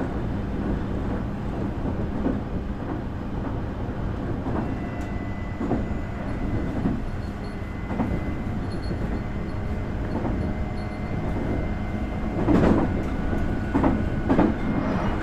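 Nankai 8300 series IGBT-inverter train running at speed, heard inside a motor car: a steady rumble of wheels on rail with clicks over rail joints, which grow louder and closer together near the end. A faint steady high tone runs through from about a third of the way in.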